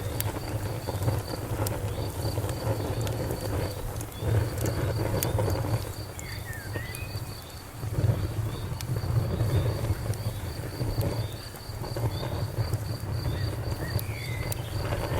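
Campfire crackling with scattered sharp pops over a low rumble, while a cricket chirps in a steady run of high pulses. A bird gives short chirps twice, about halfway through and near the end.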